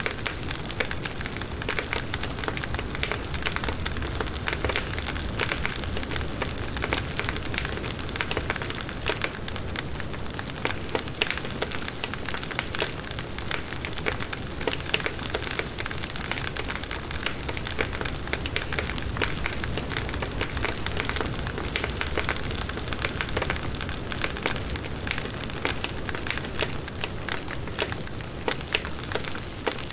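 Firewood burning in a campfire, crackling and popping with many small sharp snaps over a steady hiss.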